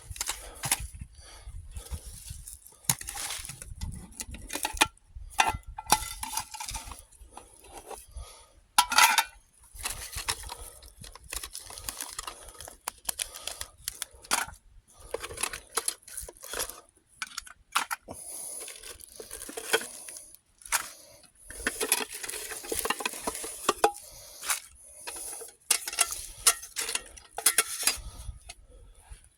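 Metal mess kit and canteen stove parts clinking and clattering as they are handled and set out, in many irregular knocks and clicks.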